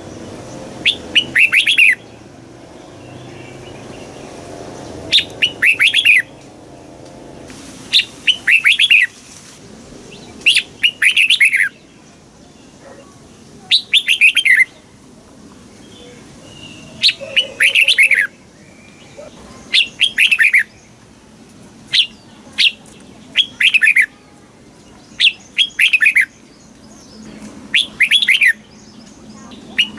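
Red-whiskered bulbul singing, short loud warbling phrases repeated about every two to three seconds.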